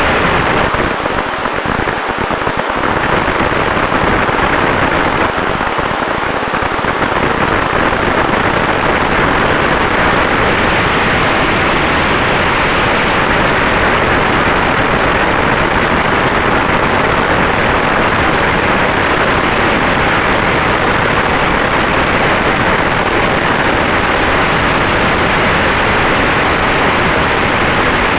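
Steady rushing air and propeller noise from an electric Sonex Xenos airplane, with a faint steady tone underneath.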